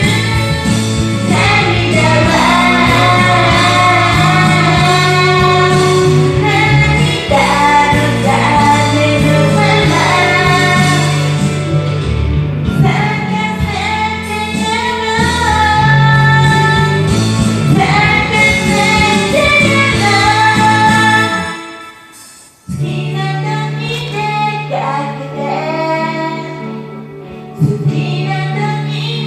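A voice singing a Japanese pop song over a full backing track. About 22 seconds in, the accompaniment briefly drops almost out, then comes back in.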